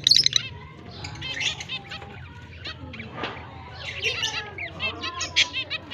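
Lovebirds chirping in many short, high calls, with a loud rapid fluttering burst right at the start.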